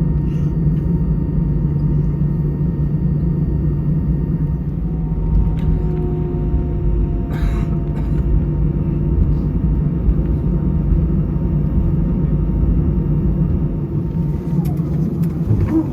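Steady low rumble inside an Airbus A320 cabin as it taxis after landing: engines at idle and the airframe rolling along the taxiway. A brief click comes about halfway through.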